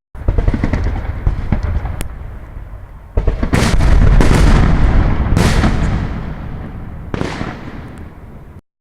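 Fireworks salute: shells bursting in a string of loud booms, each followed by a long fading rumble, with the biggest bursts coming from about three seconds in.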